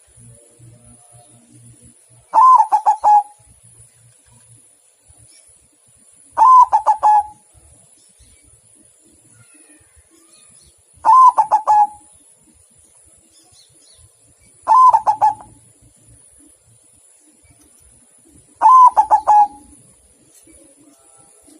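Zebra dove (perkutut) cooing its song: five short phrases of rapid staccato coos, one about every four seconds.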